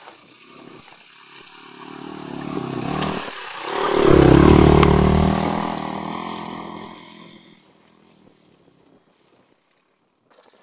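Enduro motorcycle engine approaching, passing close by and fading away: the engine note swells to its loudest about four seconds in, with a brief dip just before, then dies away by about seven seconds.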